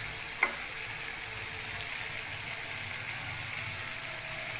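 Tomato masala sizzling and bubbling steadily in a frying pan, with one sharp click about half a second in.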